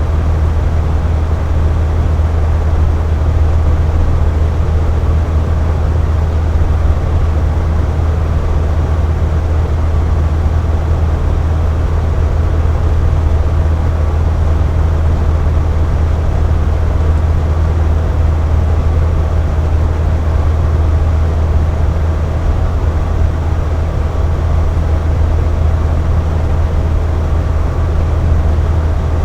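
Box fan running steadily: a deep, even hum of the motor and blades with a whooshing rush of air above it and a faint steady whine.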